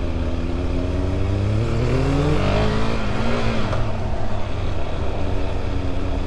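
Vehicle engine accelerating with rising pitch, dipping briefly at a gear change about two and a half seconds in and then climbing again, over steady wind and road noise.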